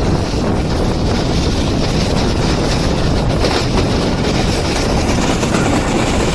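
Express passenger train running through a station at speed, a steady, loud rush and rumble of the passing coaches, mixed with wind buffeting the microphone.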